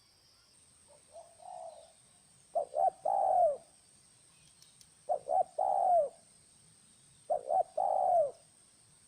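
Spotted dove cooing: a faint phrase about a second in, then three louder phrases about two and a half seconds apart, each of two quick notes and a longer coo that falls at the end.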